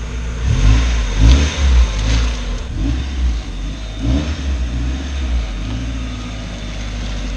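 Mazda Miata's four-cylinder engine revving as the car pulls away and accelerates, its pitch rising and falling through the gears. It is loudest in the first couple of seconds, with another rev about four seconds in.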